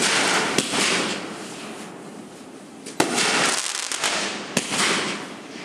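Fireworks exploding: sharp bangs about half a second in, three seconds in and again about four and a half seconds in, each trailing off in a hiss that fades over a second or two.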